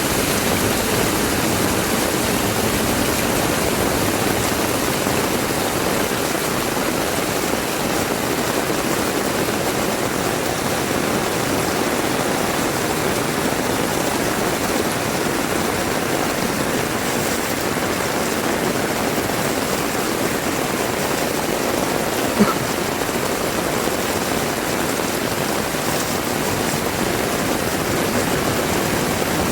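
Heavy rain falling steadily, a dense even hiss with no let-up. One brief sharp knock about three-quarters of the way through.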